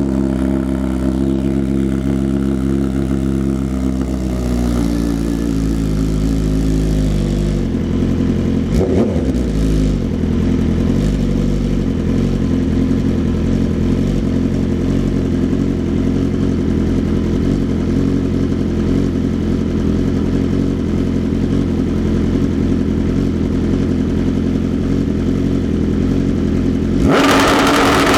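2020 BMW S1000RR inline-four with a full short-can Akrapovic exhaust idling while it warms up. The idle steps down lower about five to seven seconds in, with a quick throttle blip around nine seconds. Near the end it gives a loud, hard burst of revs.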